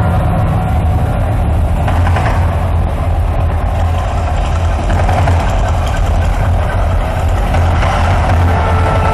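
The Mirage volcano show's rumble, a loud, steady deep rumble with no break.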